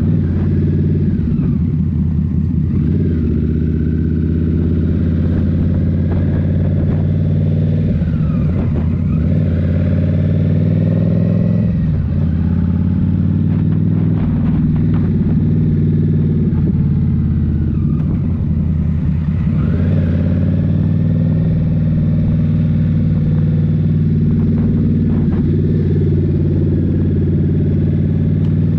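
Indian Scout Rogue's 69 cu-in liquid-cooled V-twin running through a Rinehart slip-on exhaust while riding. The engine note rises and falls several times with throttle and gear changes.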